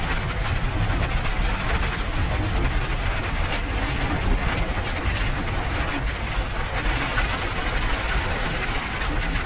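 Steady rain: an even hiss with a low rumble beneath it.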